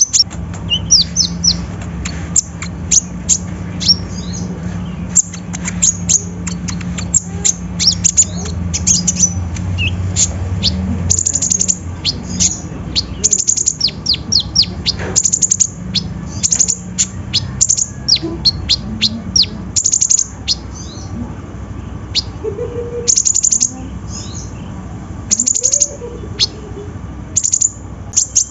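Kolibri ninja sunbird (konin) singing a fast, high-pitched song in repeated bursts of sharp chirping notes, over a steady low hum.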